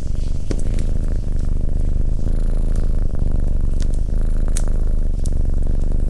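Domestic cat purring steadily, a close, continuous low rumble, with a few faint crackles from the fireplace fire.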